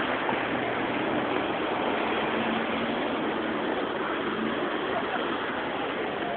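Steady rushing noise of floodwater running over a flooded street, with the hum of traffic driving through it.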